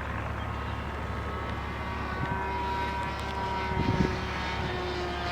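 Propeller airplane engine droning as it flies past, its steady tones sliding slowly lower in pitch, over low wind rumble, with a brief low thump about four seconds in.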